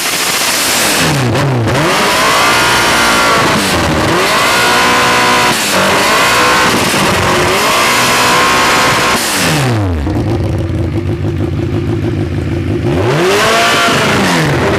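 The 1299 cc inline-four engine from a 2006 Suzuki Hayabusa, running out of the bike, is revved up and down repeatedly with the pitch rising and falling. About ten seconds in it drops back to a steady idle, then is revved again near the end.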